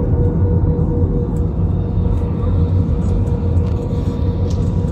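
Airliner cabin noise during the descent to landing: a steady low rumble of engines and airflow with a constant hum on top.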